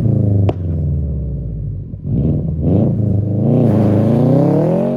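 2006 Subaru STI's turbocharged 2.5-litre flat-four running through a Tomei aftermarket exhaust. The revs fall over the first two seconds, then climb again and rise steadily toward the end.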